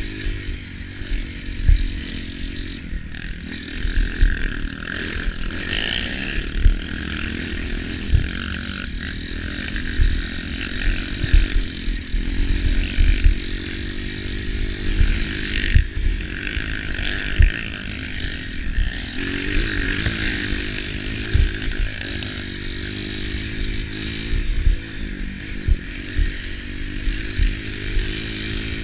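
Off-road trail motorcycle engines running, revs rising and falling, with frequent low thumps.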